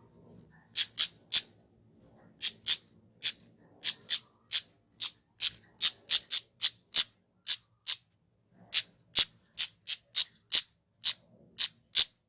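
Kemade (flowerpecker) calling: a quick run of about thirty short, sharp, very high notes, two to three a second, broken by two brief pauses.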